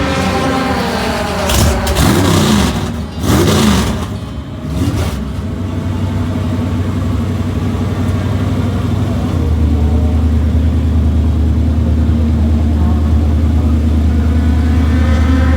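Drag race car engines: loud revving that rises and falls for a few seconds about two seconds in, then engines running steadily with a deep low hum.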